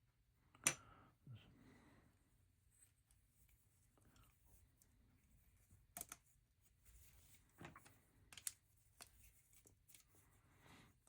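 Plastic LEGO bricks being handled and pressed together: a scattering of sharp, separate clicks over quiet room tone, the loudest just under a second in.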